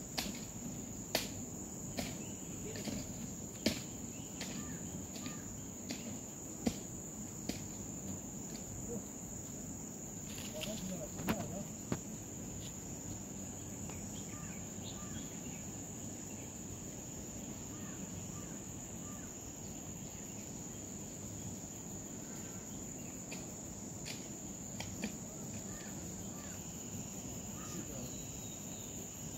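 Insects trilling in one steady, high-pitched tone, with sharp clicks or knocks about once a second during the first twelve seconds.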